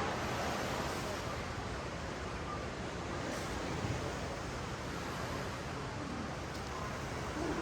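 Ocean waves washing up a sandy beach: a steady wash of surf.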